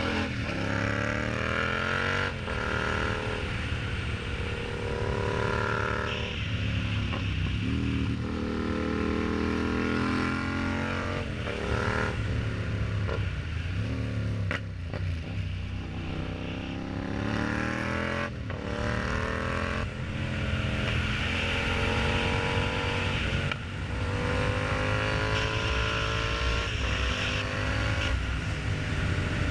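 Yamaha MT-07's 689 cc parallel-twin engine through an aftermarket exhaust, accelerating through the gears. The pitch climbs and then drops back at each upshift, every few seconds.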